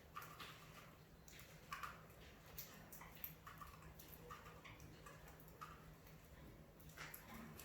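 Budgerigars making faint, irregular short chirps and clicks, a few a second, over a low steady hum.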